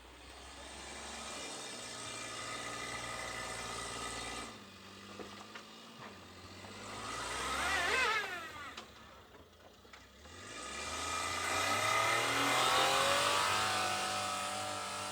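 Motor vehicle engines. One vehicle passes about eight seconds in, its pitch sweeping down as it goes by; a few seconds later another engine grows louder, peaks and fades.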